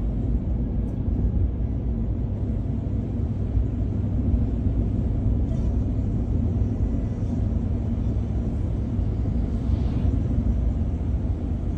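Steady low rumble of a truck's engine and tyres heard from inside the cab while driving.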